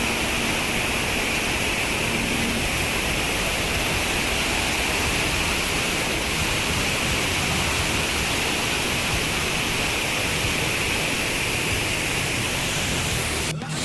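Waterfall: a loud, steady rush of falling water, breaking off for a moment near the end.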